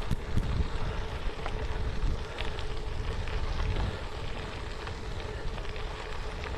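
Wind buffeting a GoPro's microphone on a moving bicycle, over an uneven rumble from the tyres on the trail surface, with scattered small clicks and rattles from the bike.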